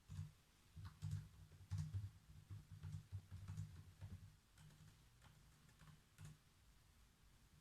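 Faint typing on a computer keyboard: a quick run of key clicks over the first four seconds or so, thinning to a few single taps and stopping about six seconds in.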